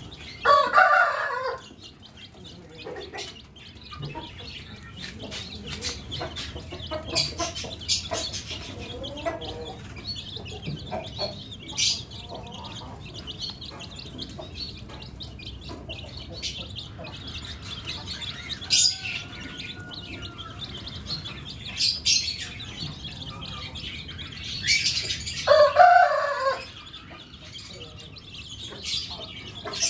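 A rooster crowing twice, once near the start and again about 25 seconds in, each crow lasting one to two seconds. Between the crows come scattered short chirps and clucks from the other birds.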